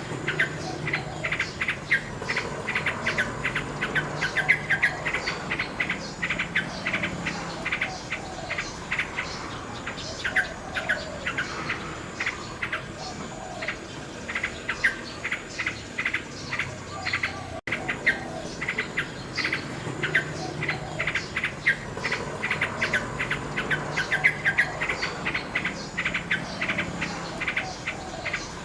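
Nightingale singing: fast runs of rapidly repeated notes and trills, with a brief dropout about two-thirds of the way through.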